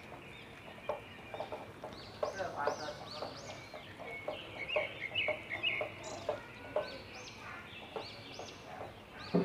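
Repeated short, arching bird chirps and calls in the background, over soft scraping and knocking of a silicone spatula stirring thick batter in a glass bowl.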